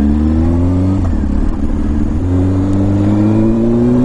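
Honda CBR600F4's inline-four engine pulling under acceleration. Its pitch climbs, drops back about a second in as it shifts up a gear, then climbs steadily again.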